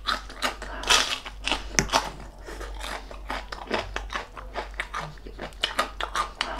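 Chewing of crunchy deep-fried pork knuckle skin (crispy pata): an irregular run of sharp crunches, the loudest about a second and two seconds in.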